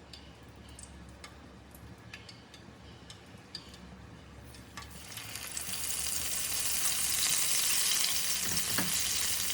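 A few faint clicks, then about five seconds in battered vegan fish patties go into hot oil and sizzling starts, rising quickly to a steady loud hiss of deep frying.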